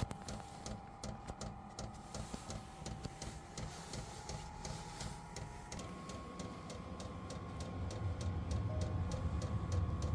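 Diesel air heater running: its fuel pump ticks evenly about four times a second over the whine of the blower fan. The fan's pitch steps up about six seconds in, and a deeper hum builds near the end.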